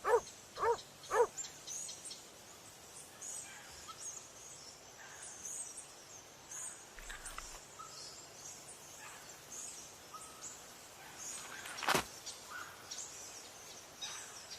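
A dog barking three times in quick succession, then a quiet natural ambience of small birds chirping. There is a single sharp snap about twelve seconds in.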